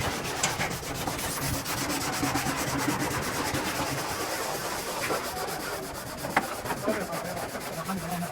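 Steady abrasive rubbing of sanding on the truck's cab bodywork.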